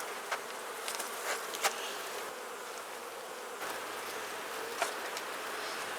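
Honeybees buzzing steadily around an open Langstroth hive during a frame inspection, with a few light clicks.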